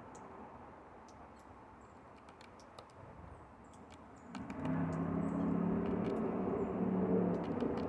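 Scattered sharp ticks and a few faint high chirps, then about four seconds in a louder steady engine-like hum with low steady tones comes in.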